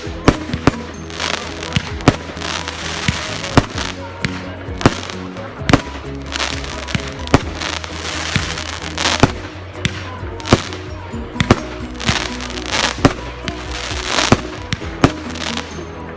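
Fireworks going off: a run of sharp bangs, roughly one a second, with hissing and crackling between them, over background music with steady low notes.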